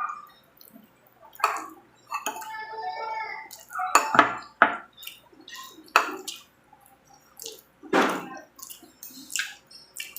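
Close-up eating sounds: a spoon clinking on dishes, with wet slurps and mouth noises from someone eating mung bean soup and chicken sisig. The clicks and slurps come at an irregular pace, several a second at times.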